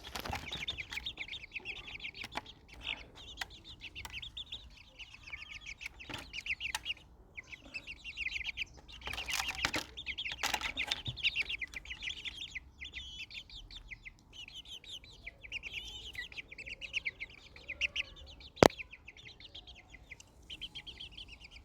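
Many small birds chirping rapidly and continuously, their calls overlapping. A single sharp click comes late on.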